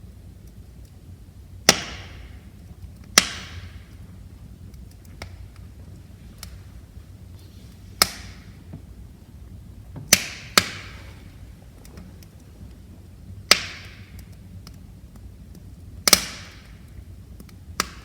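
Wood fire crackling in a fireplace, with about eight sharp, loud pops at uneven intervals and fainter ticks between them over a low steady hiss of burning.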